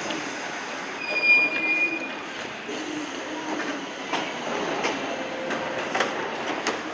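Iyo Railway 3000-series electric train running, with a brief high-pitched wheel squeal about a second in. In the second half come several sharp clacks of the wheels over rail joints and points.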